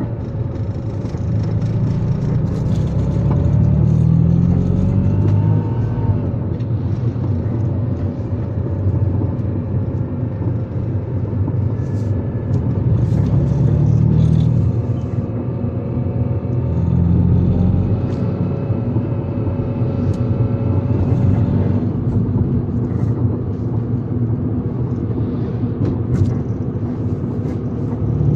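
A motor vehicle driving, with a steady low road-and-engine rumble. The engine pitch climbs several times as it accelerates.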